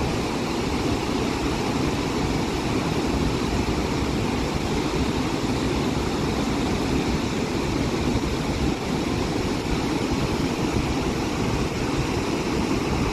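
Steady, unbroken rush of a large waterfall, the Gaganachukki Falls on the Kaveri river.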